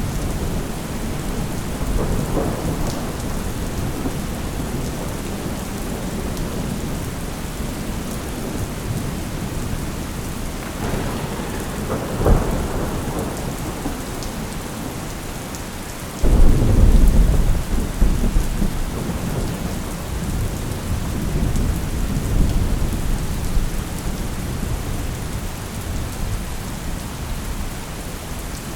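Steady rain on surfaces with thunder: a rumble about two seconds in, a sharp crack near twelve seconds, and a sudden loud deep thunderclap about sixteen seconds in that rolls on for several seconds.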